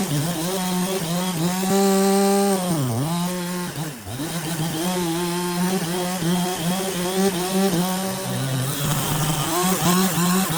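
Chainsaw engine running at high revs, its pitch dipping sharply and recovering twice, about three and four seconds in, as if loaded in a cut.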